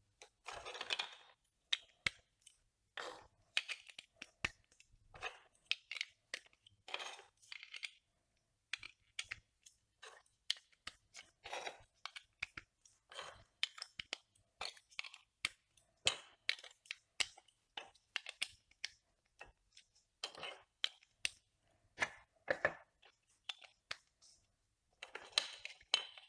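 Plastic Duplo bricks, regular ones and 3D-printed angled ones, being handled and snapped together: a run of sharp plastic clicks and short scraping clatters, several a second, with brief pauses.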